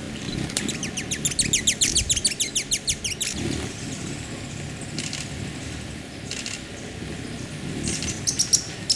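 Bird calling: a fast trill of about two dozen short, high, descending chirps, roughly eight a second, lasting nearly three seconds, then a few brief calls later on, over a steady low rumble.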